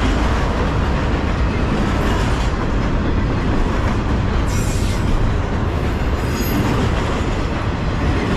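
Double-stack intermodal container cars of a freight train rolling past close by: a steady rumble and rattle of steel wheels on the rails. A brief faint high wheel squeal comes about six seconds in.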